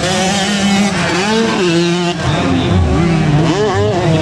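Motocross bike engines revving hard, their pitch rising and falling with throttle and gear changes, several bikes overlapping.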